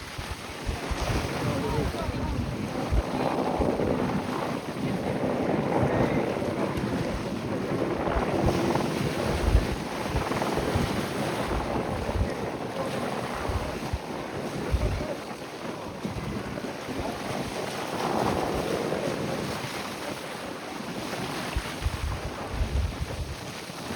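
Strong wind buffeting the microphone in repeated gusts, over a steady rush of water and waves.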